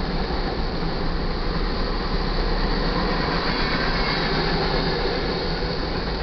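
Iron ore train's freight cars rolling past over the crossing: a steady, continuous rumble of steel wheels on rail.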